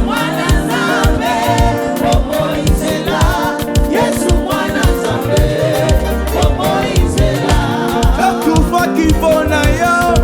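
Gospel praise and worship music: voices singing over a band with a steady drum beat.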